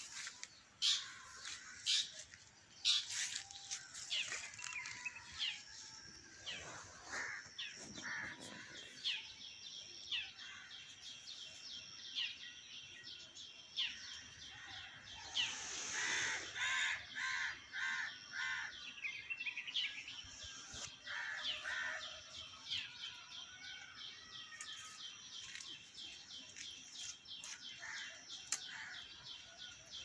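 Several birds calling in trees: scattered high chirps and a fast, even run of repeated high notes through much of it, with a louder, harsher call repeated about five times near the middle.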